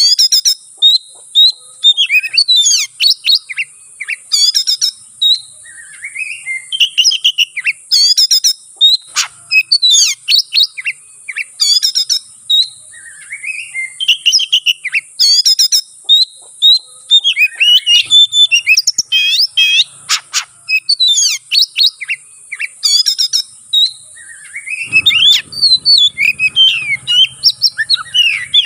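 Oriental magpie-robin (kacer) singing a loud, varied song of rapid whistles, trills and chirps in short phrases with brief pauses. It is the agitated 'konslet' fighting song, full of mimicked phrases, that keepers use to provoke a rival bird.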